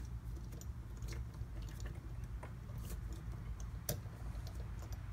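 Faint scattered clicks and taps of small metal parts as a bearing separator is worked into place under the bearing of an ABS pump motor's shaft.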